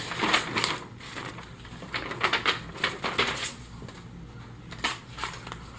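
Paper instruction sheets being handled and turned over, rustling and crinkling in irregular bursts.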